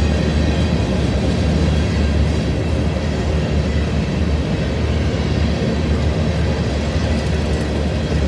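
Freight train passing close by, a steady low rumble.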